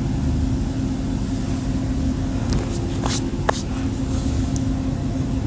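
A steady low motor rumble with a constant hum, and a few faint clicks about halfway through.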